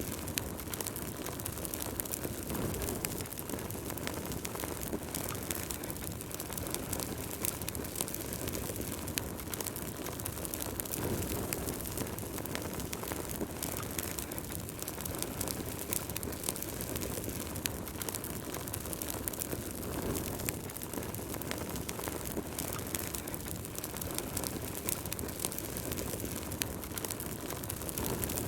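Wood fire burning in a fireplace: frequent small sharp crackles and pops over a steady low rushing of the flames.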